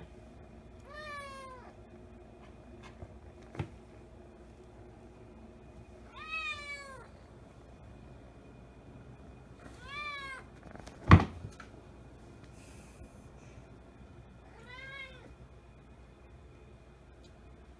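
Russian Blue kitten meowing to beg, four separate high-pitched meows a few seconds apart, each falling in pitch at its end. A single sharp knock between the third and fourth meows is the loudest sound, with a fainter click earlier.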